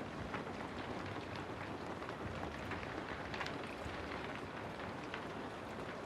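Steady rain falling, with individual drops ticking and pattering on a surface now and then.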